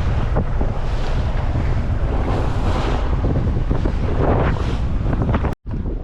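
Strong wind buffeting the microphone over the wash of choppy sea water around a small boat. The sound drops out for a moment near the end.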